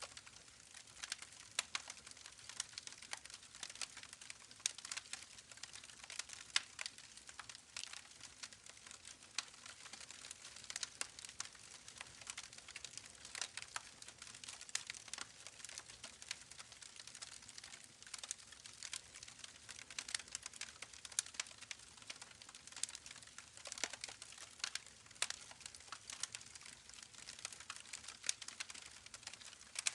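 Campfire crackling: many small, irregular snaps and pops over a soft hiss.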